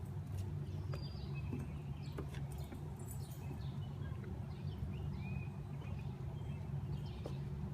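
Small birds chirping now and then in the woods, short high calls scattered throughout, over a steady low rumble. Faint light clicks, like footsteps on the trail, run underneath.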